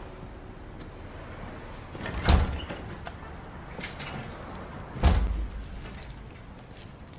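A door opening and closing, with two solid thumps about three seconds apart and a short high sound between them.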